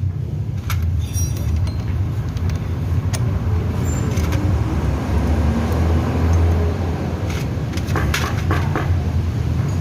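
Honda Beat FI scooter engine and CVT running steadily with a low hum, with a few light clicks about a second in and near the end.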